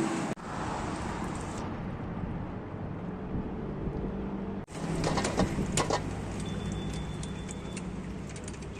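A motor vehicle's engine running steadily, its hum cutting off for an instant twice, with a few sharp metallic clinks about five to six seconds in.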